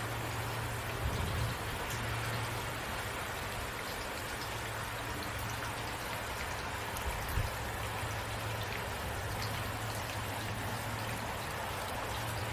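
Steady rain falling, an even hiss of drops, with a low hum underneath. Two brief low thuds come about a second in and again past the middle.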